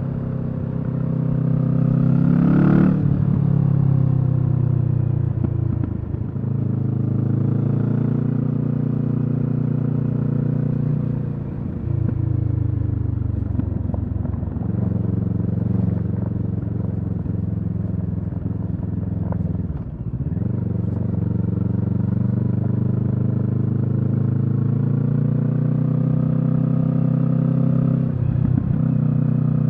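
Kawasaki Z650's parallel-twin engine running under way through a Leo Vince EVO carbon slip-on exhaust. The revs climb to a peak about three seconds in and then fall, dip briefly twice around the middle, and rise and drop again near the end, as the rider works the throttle and gears.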